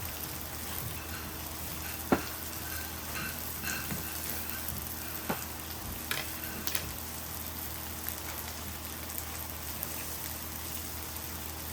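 Meat sizzling on a cast-iron pot-lid griddle, a steady hiss, with a few sharp clicks, the loudest about two seconds in.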